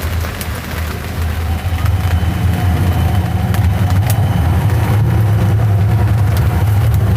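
Low, steady rumble of a motor vehicle running, growing louder about two seconds in, with scattered light ticks over it.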